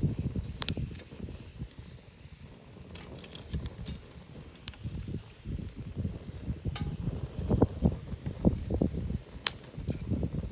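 Wood fire burning in a fire-pit stand, crackling with a few sharp, separate pops over a low, uneven rumble.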